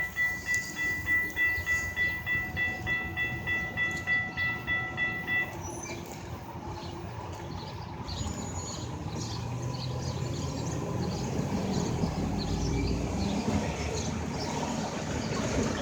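Safetran Type 3 high-pitch electronic crossing bells ringing in a fast, steady pulse, which stop about five and a half seconds in. Then the low rumble of a train that slowly grows louder, with a few rail clicks.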